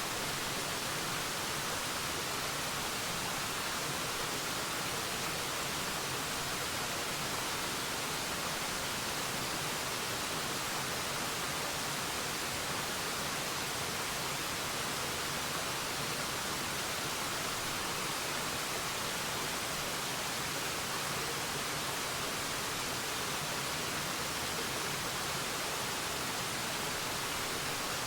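Waterfall: falling water making a steady, even hiss with no breaks or changes.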